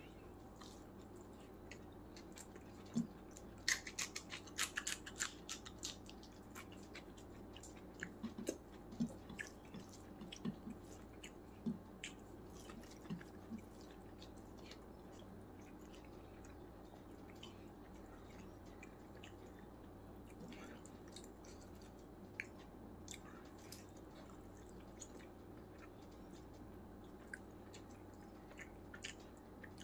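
Close-miked eating sounds of chicken biryani eaten by hand: chewing and wet mouth clicks, with fingers working rice on the plate. The clicks come thickest about four seconds in and through the following ten seconds, then thin out.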